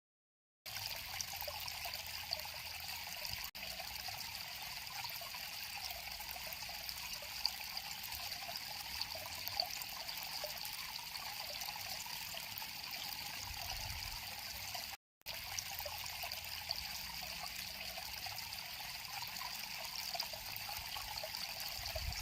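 Stream water flowing and trickling steadily over stones, an even rushing hiss with small splashes. It cuts out for a moment about two-thirds of the way through.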